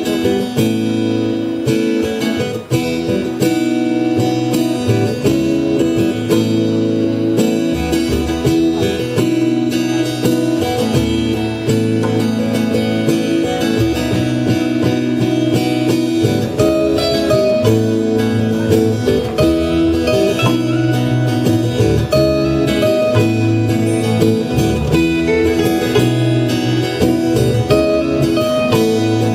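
A band playing a song's instrumental introduction live, led by strummed and plucked acoustic guitar, with no singing yet.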